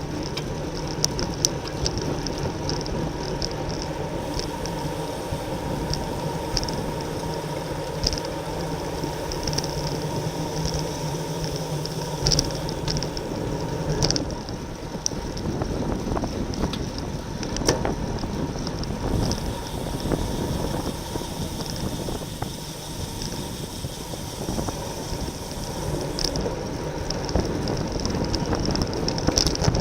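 Wind and road noise while riding a racing bicycle, with the wind rushing over the microphone, and scattered sharp clicks throughout. A low hum underneath stops about halfway through.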